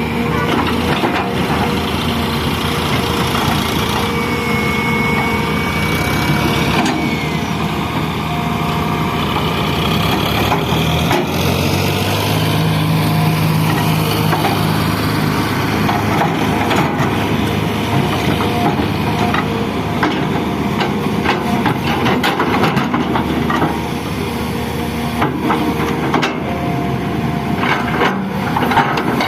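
Excavator engine running under load, its note shifting as the hydraulics work. A thin high whine sounds about four seconds in, and scattered knocks and clanks are heard.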